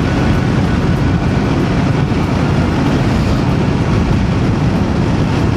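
Voge DS525X motorcycle riding at speed: a steady, loud rush of wind noise on the helmet microphone with the engine running beneath it.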